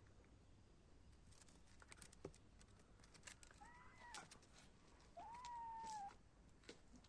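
Kitten meowing twice, a short meow and then a longer, louder one, with faint scattered clicks and taps around them.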